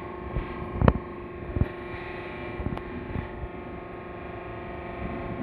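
Hydraulic jacking power pack running with a steady, even drone, with a few sharp knocks, the loudest a little under a second in.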